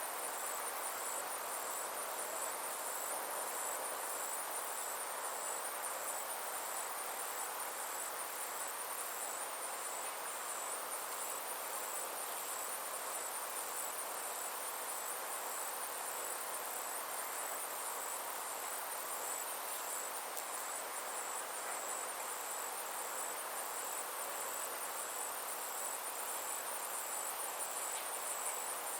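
Summer insects, cricket-like, trilling steadily in a high, evenly pulsing chirr, over a soft even hiss of outdoor ambience.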